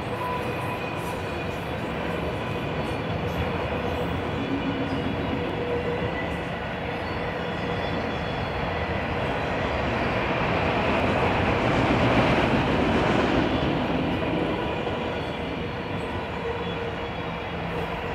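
Autorack freight cars rolling past on steel rails: a steady rumble of wheels on track with faint steady high tones above it, swelling louder about two-thirds of the way through.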